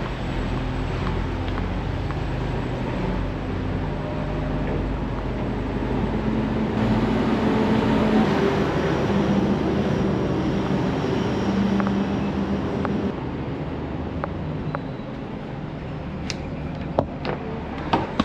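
Steady low engine rumble on a ferry's car deck, swelling a little midway, with a few sharp clicks near the end.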